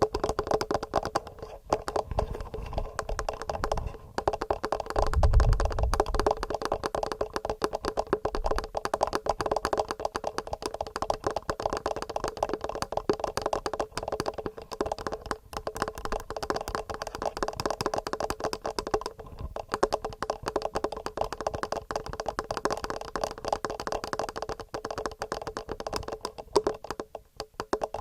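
Fingernails tapping rapidly on a TASCAM handheld recorder and its microphones, many taps a second in quick runs with brief pauses, with a dull low thump about five seconds in.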